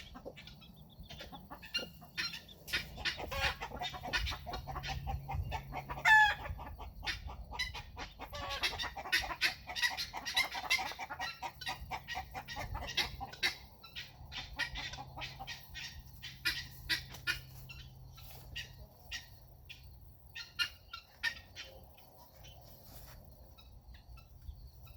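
Chickens, a hen with her chicks, clucking and giving many short, high peeps and calls, with one longer warbling call about six seconds in. A faint low hum runs underneath.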